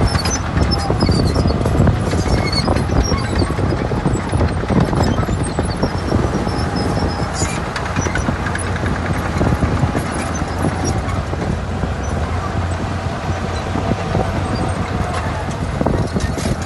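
Heavy earthmoving machinery working: a diesel engine running steadily under many irregular metallic clanks and rattles, with one sharper clank about halfway through.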